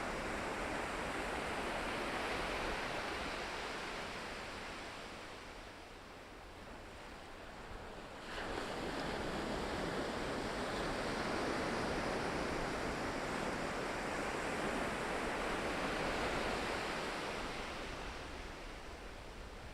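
Ocean surf breaking and washing in: a steady rush that eases off in the middle, then a new wave comes in suddenly about eight seconds in and the wash swells again before fading near the end.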